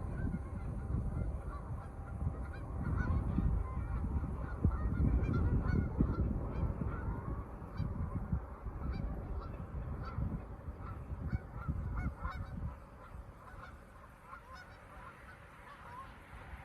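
A flock of birds calling, with many short calls overlapping, over a low rumble that dies away about two-thirds of the way through.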